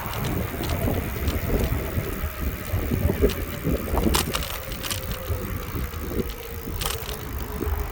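Bicycle being ridden along pavement: steady tyre and road rumble with scattered clicks and knocks from the bike over bumps.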